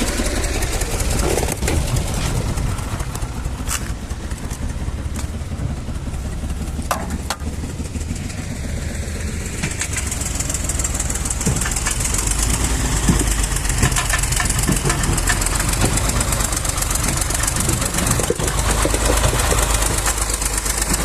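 Tractor engine running steadily under load, a continuous low rumble with scattered knocks and rattles.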